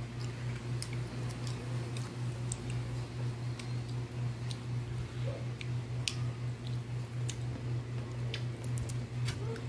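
A steady low hum with a slight pulse, with scattered small sharp clicks of a toddler chewing sweetcorn kernels.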